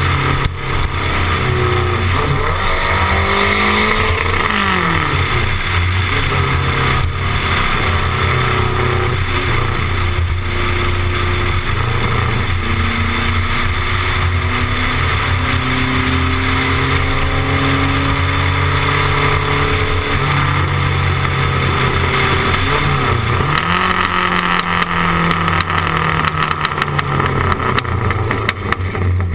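Turbocharged four-cylinder engine of a Renault 5 turbo car accelerating hard, its pitch climbing and dropping with each gear change, several quick shifts early and then a long slow climb through a higher gear.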